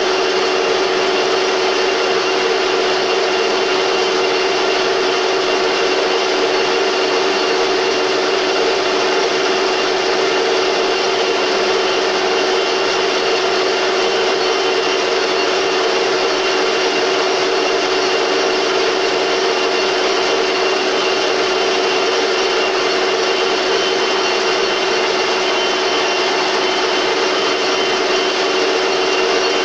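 Metal lathe running steadily under power, a constant mechanical hum with a high whine held through.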